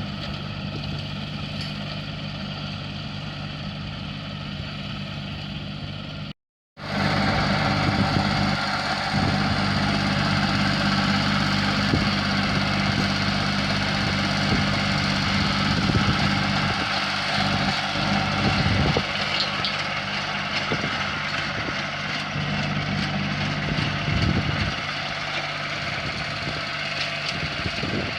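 An engine running steadily at idle. It cuts out abruptly for a fraction of a second about six seconds in, then carries on a little louder.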